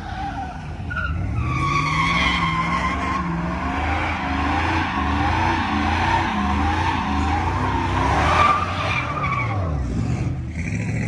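A truck doing a burnout, its tyres squealing while the engine revs up and down.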